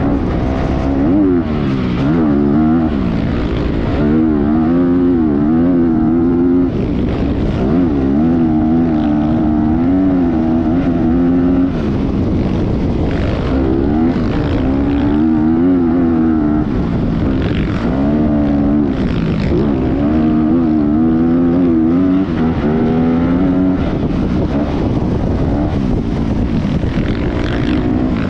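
Motocross bike engine being ridden hard, its pitch climbing and dropping again and again every second or two as the throttle is opened and shut.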